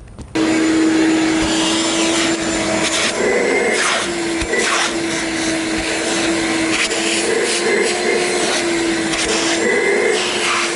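Shop vac running, vacuuming car seat upholstery. It starts suddenly, then holds a steady whine over rushing air, with the pitch dropping and rising slightly a few times as the nozzle works over the seat.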